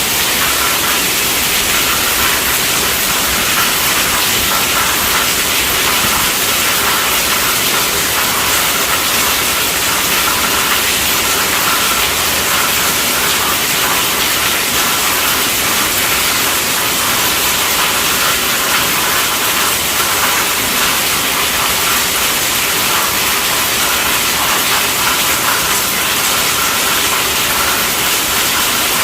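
Heavy rain falling on a tent roof: a steady, dense hiss that does not let up.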